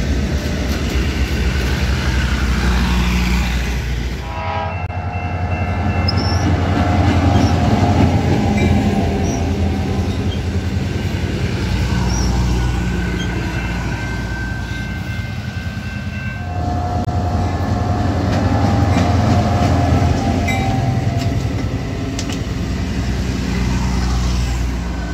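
Passenger-type railcars of a train rolling past at close range: a steady rumble and clatter of wheels on the rails. Steady high ringing tones come and go over it.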